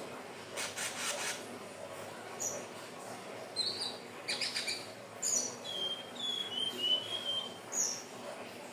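Sikatan ninon (indigo flycatcher) calling: scattered short high chirps, then a quick run of short, slightly falling whistled notes about two thirds of the way in. A few short rasping, rubbing strokes come about a second in.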